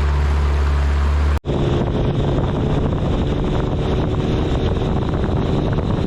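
Tarpon 9.9 outboard motor running steadily with the boat under way, wind buffeting the microphone. A little over a second in the sound drops out for an instant and comes back with less low drone and more wind noise.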